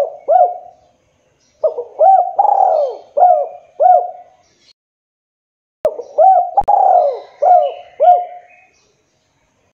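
Spotted dove (tekukur) cooing in repeated phrases of several rounded coos: the end of one phrase at the start, then two full phrases a second or so apart. Faint chirps from smaller birds sound behind it.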